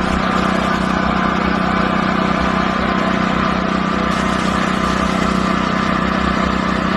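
Small engine running at a steady speed, with no change in pitch.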